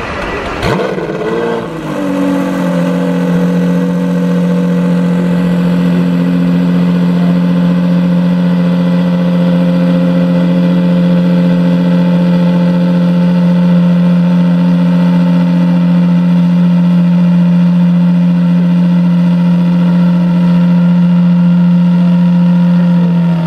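Lamborghini Sián FKP 37's 6.5-litre V12 just started and running cold: its revs flare about a second in, fall back, and settle into a steady idle, which dips slightly right at the end.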